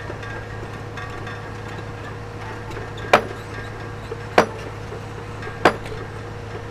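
Three sharp clinks of stone being struck, each about a second and a quarter apart, over a steady low hum of a machine running.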